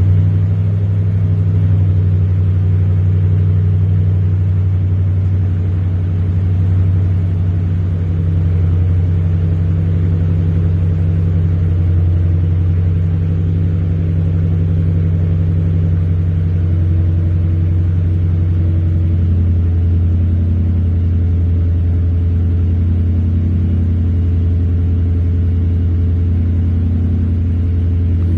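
Toyota Tundra 5.7L iForce V8 running steadily through a Flowmaster Super 10 muffler, a deep, even exhaust rumble with no revving. The tone turns slightly rougher in the last third.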